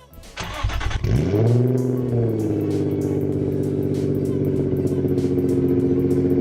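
Car engine starting: a brief crank, then it catches, revs up quickly and settles into a steady idle, with background music underneath.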